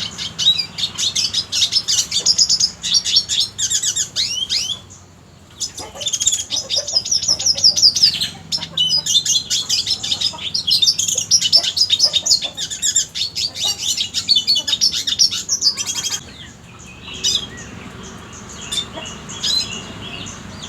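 Red siskin singing a fast, twittering song of rapid trills and chirps, with short pauses about five seconds in and again after about sixteen seconds.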